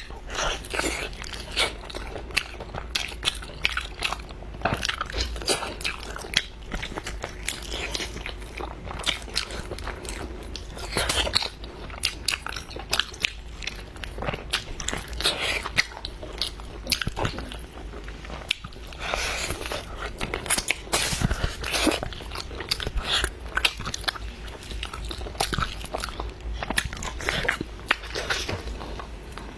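Close-up mukbang eating sounds: continuous irregular biting and chewing with wet clicks and crunches, as braised pork leg is eaten.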